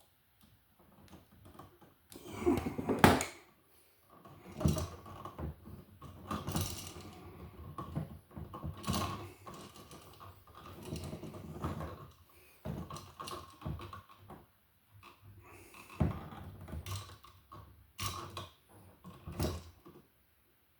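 Irregular clicks, taps and scraping from hand work on a wall receptacle: stiff copper wires being bent and fastened to the outlet's terminals with tools. The loudest knocks come about three seconds in.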